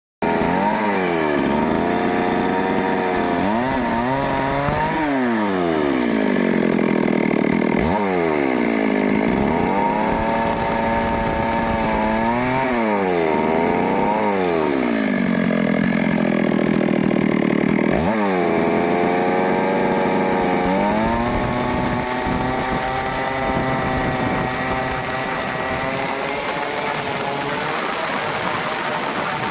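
Stihl two-stroke chainsaw cutting a teak tree. The engine is revved up and down again and again, its pitch rising and falling every couple of seconds and holding steady in between, then running at a steadier pitch over the last several seconds.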